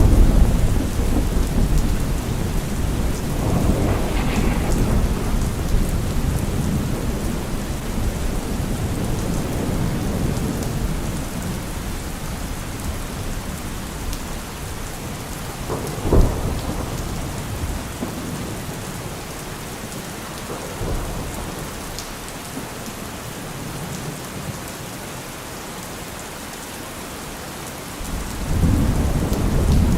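Steady rain with rolling thunder. A loud rumble at the start dies away over several seconds, sharper claps come about four and sixteen seconds in, and another rumble builds near the end.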